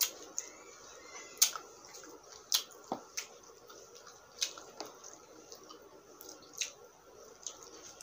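Close-miked eating sounds from chewing a sticky, sauced barbecue pork rib: wet mouth clicks and lip smacks, coming at irregular moments, about a dozen sharp ones in all.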